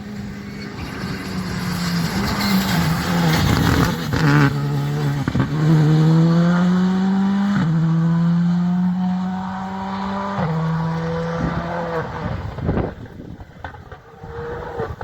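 Rally car engine passing by: it grows louder, accelerates hard with the pitch climbing, then drops twice at gear changes and fades away.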